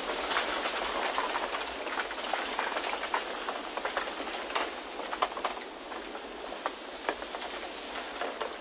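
Wind noise: a steady rushing hiss scattered with many irregular small ticks and crackles, easing slightly about two thirds of the way through.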